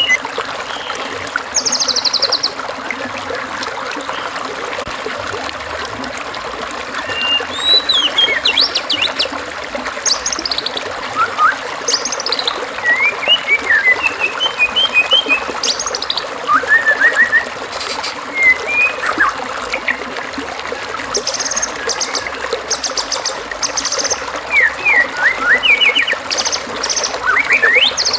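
White-rumped shama (murai batu) singing a varied song of whistles, slurred notes and rapid buzzy trills in separate phrases, over a steady trickle of running water.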